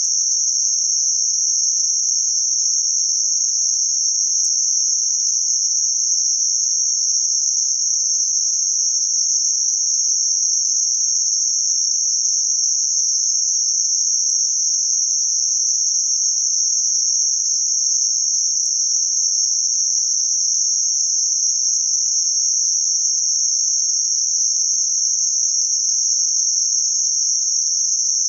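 Band-limited white noise centred around 6051 Hz: a steady, even high-pitched hiss that does not change.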